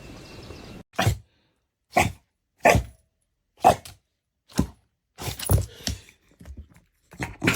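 A dog barking in short, separate barks about once a second, with a quicker cluster of barks near the end. Under a second in, steady rain noise cuts off suddenly.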